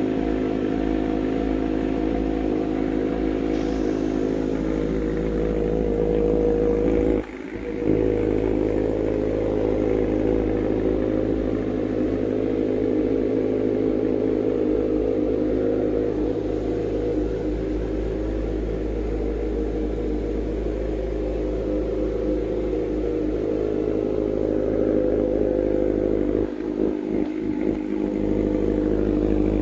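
Kawasaki Z900's inline-four engine idling steadily while still cold, warming up after a cold start. The sound dips briefly about seven seconds in and again a few seconds before the end.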